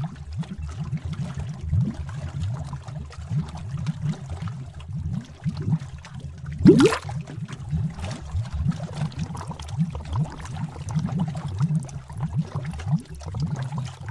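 Bubbling cauldron sound effect: liquid bubbling and gurgling in a steady stream of short, low glugs, with one larger bubble bursting about seven seconds in.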